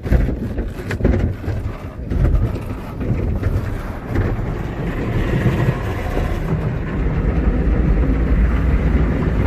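Tunnel car wash equipment working over a car, heard from inside the cabin: a heavy rumble of brushes and water against the body, with a few knocks in the first couple of seconds and a steadier wash from about halfway.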